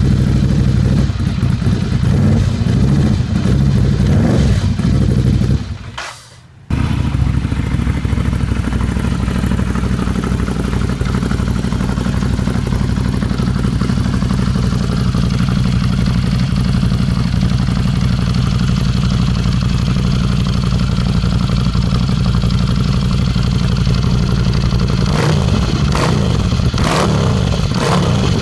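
Ducati Scrambler 800's air-cooled L-twin engine running steadily through its exhaust. The sound drops out briefly about six seconds in, and a few sharp knocks come in near the end.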